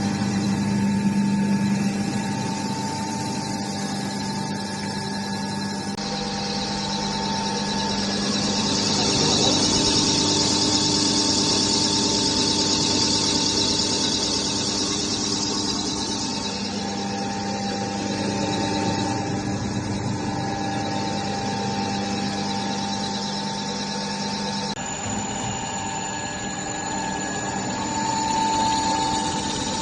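Floating-pellet extruder machine running: a steady motor hum with a higher hiss that swells for several seconds in the middle.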